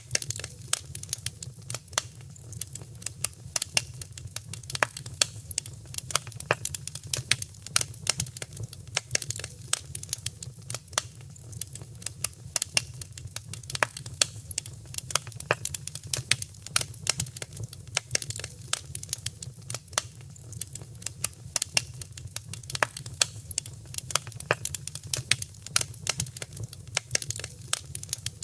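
Wood fire crackling in a fireplace: dense, irregular sharp pops and snaps, several a second, over a steady low rumble of the flames.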